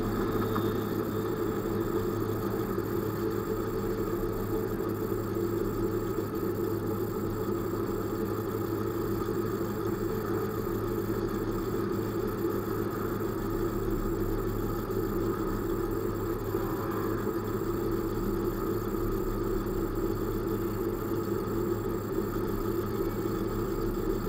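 Car engine idling steadily at an even, unchanging pitch.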